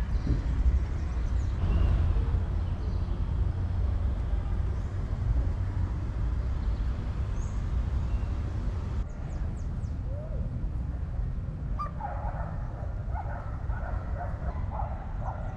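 Steady low rumble of city street ambience, with a series of short animal cries in the last few seconds.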